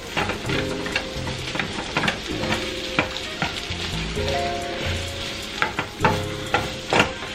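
Onions, garlic and shrimp sizzling in a hot skillet, stirred with a utensil that clicks against the pan many times.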